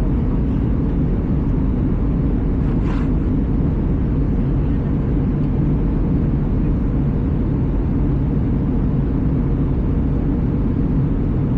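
Steady low rumble of engine and airflow noise inside the cabin of an Airbus A320 airliner, with a brief hiss about three seconds in.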